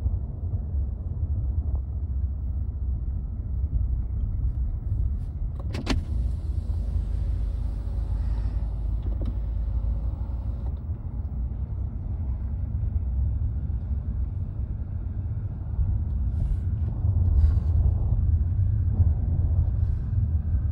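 Steady low rumble of diesel freight locomotives and rolling rail cars mixed with the car's own running noise, heard from inside a car. There is a sharp metallic clank about six seconds in, with a faint ringing after it, and the rumble grows louder near the end.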